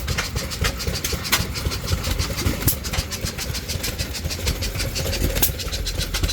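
Several antique stationary gas engines running together: a low steady chugging with irregularly spaced sharp firing pops.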